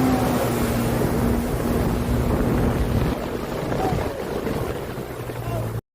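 Jet ski engine running hard at a steady pitch, with wind buffeting the microphone and the rush of water. About three seconds in, the engine tone drops away into mostly wind and water noise. The sound cuts out abruptly just before the end.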